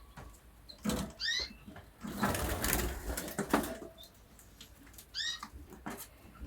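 Caged finches in a breeding room giving short, rising call notes, once about a second in and again near the end, with faint high peeps between. In the middle comes a second and a half of rattling clatter.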